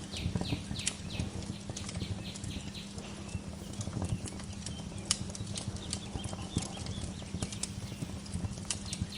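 Wood fire crackling and popping in irregular sharp snaps over a steady low rumble. Near the start, a bird gives a quick run of short descending chirps.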